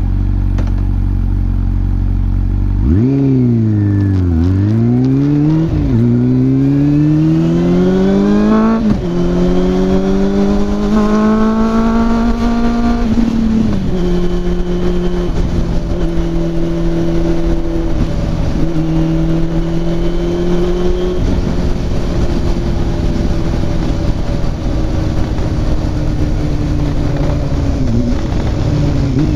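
Honda CB400SF inline-four through a WR'S slip-on muffler, the revs swinging down and up, then climbing in three pulls, each cut short by an upshift. After that it holds a steady note at cruising speed.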